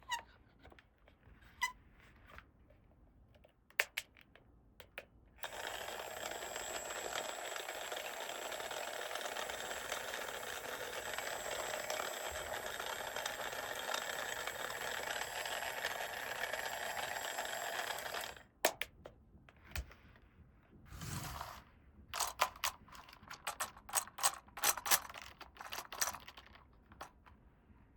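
Small plastic toy parts being handled and snapped together, giving sharp scattered clicks and quick ratchet-like runs of clicks. A steady hiss runs for about thirteen seconds in the middle, and a dull thump comes about three seconds after it stops.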